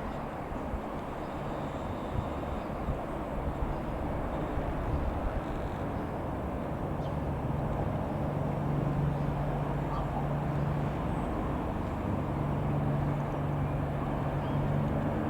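Rockwell Commander 114 single piston-engine light aircraft droning as it approaches: a steady low engine drone that sets in about halfway and slowly grows louder, over a rumble of wind on the microphone.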